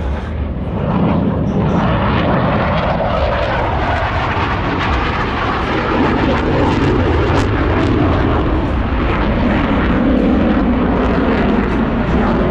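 Jet noise from Blue Angels F/A-18 Super Hornets flying a low pass, a loud steady rush that swells about a second in and stays loud.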